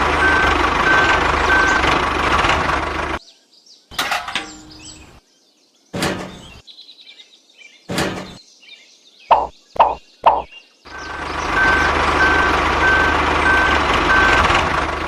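Truck running with its reversing alarm beeping steadily, about two beeps a second, which stops about three seconds in and starts again near the end. In the gap come a few sharp knocks and three quick high chirps.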